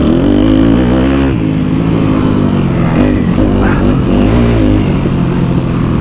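Kawasaki KX250F dirt bike's four-stroke single-cylinder engine revving up and down under throttle while being ridden, its pitch rising and falling several times.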